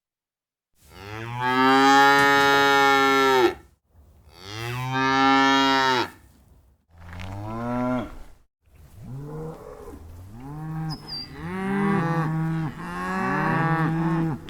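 Cattle mooing: two long, loud moos, then a shorter one, then a run of shorter overlapping moos at different pitches from more than one animal.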